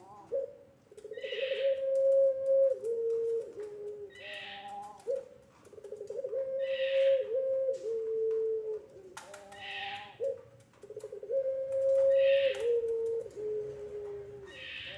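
Puter pelung dove cooing: three long drawn-out coos, each stepping down in pitch in two or three stages.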